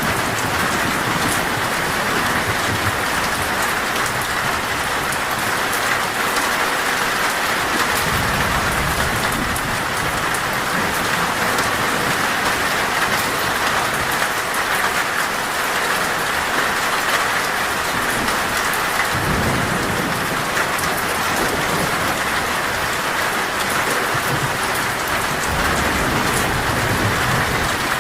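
Torrential rain pouring steadily onto a metal roof, with low rolls of thunder rumbling in a few times.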